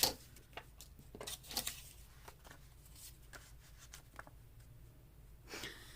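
Faint rustling and light taps of paper being handled and laid down, in scattered short bursts with a sharper click at the very start.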